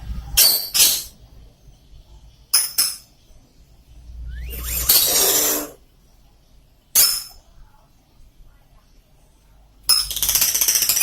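A bird giving several short, raspy, cough-like calls, one of them longer. About ten seconds in it breaks into a fast, continuous rattling chatter.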